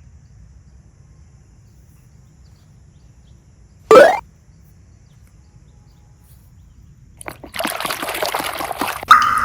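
A quick rising swoosh about four seconds in, then wet, crackly squishing of slime near the end.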